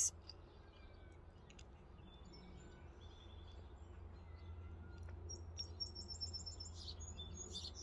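Small birds chirping in the background, with a rapid trill of short high notes about five seconds in, over a low steady rumble.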